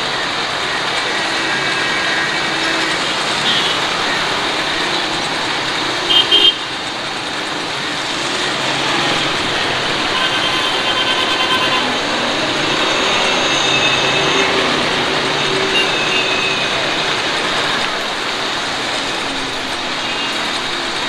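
Suzuki Alto's small petrol engine idling steadily with the bonnet open. A short, loud sound comes about six seconds in.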